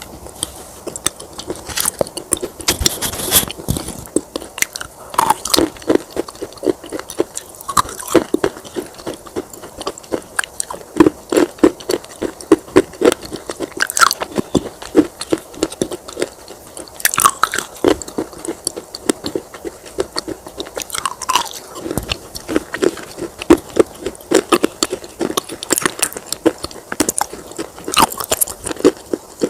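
Baked clay pot pieces crunching as they are bitten and chewed: sharp crackles in rapid clusters, with a louder crunch every second or so.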